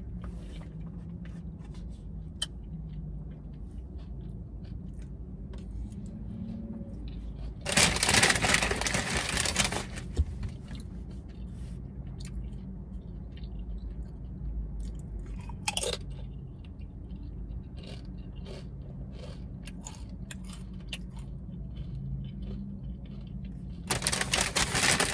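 Tortilla chips bitten and chewed close to the microphone: a loud crunching stretch about 8 seconds in and another near the end, with quieter chewing between.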